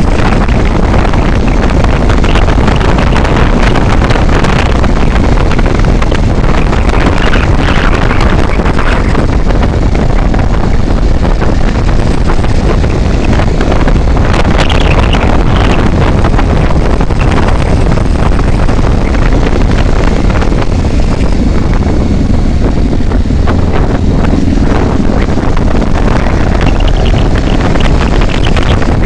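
Wind rushing over the microphone of a moving vehicle, with the vehicle's running and road noise beneath it, loud and steady throughout.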